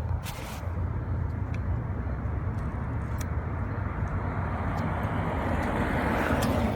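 Steady low background rumble that swells near the end, with a few faint ticks.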